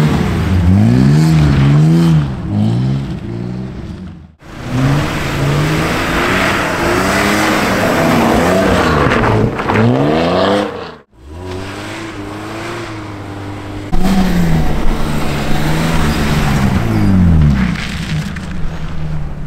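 A car engine revving up and down over and over as the car is driven sideways through a corner in a drift, with tyre noise over it. The sound breaks off abruptly twice, between separate runs.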